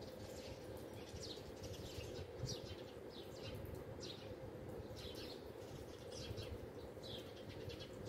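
A flock of small birds perched in a tree chirping: short falling chirps, about one or two a second, over a steady low background hum.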